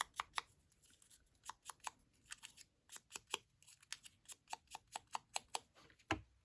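Scissors snipping paper in a run of short, quick cuts, about two to three a second, with a duller knock near the end.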